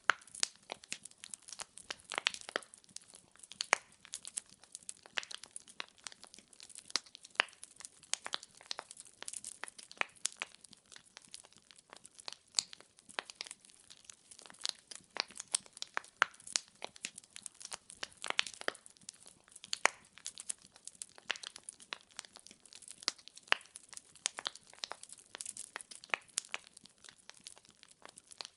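Wood fire crackling: dense, irregular pops and snaps of burning firewood over a faint hiss, with a few louder pops.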